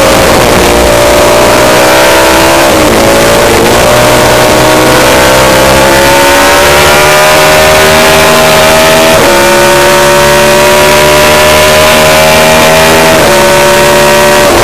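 Racing motorcycle engine under hard acceleration, loud throughout. Its pitch climbs steadily and drops sharply at gear changes about three, nine and thirteen seconds in.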